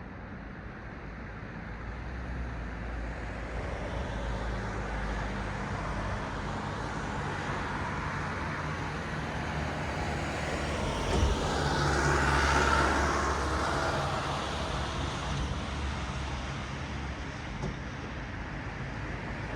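Road traffic: a steady hum of cars passing, with one vehicle passing close about two-thirds of the way through, swelling and then fading.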